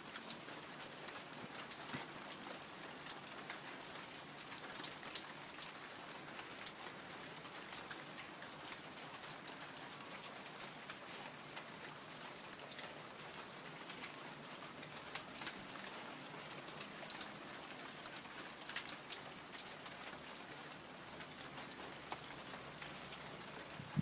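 Steady rain falling, with many individual drops ticking sharply on hard surfaces close by.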